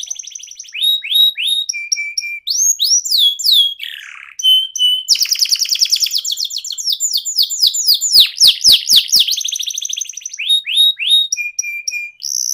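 Canary singing a fast, unbroken song: repeated downward-sweeping whistles, short buzzy held notes and a long rapid rolling trill about five seconds in.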